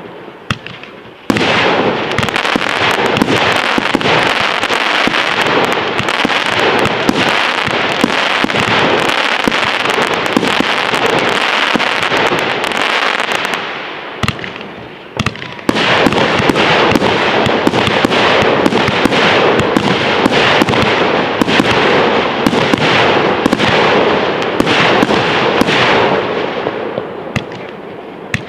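Fireworks display: a dense, continuous barrage of crackling and popping bursts. It eases off briefly about halfway, comes back loud a second or two later, and tails off near the end.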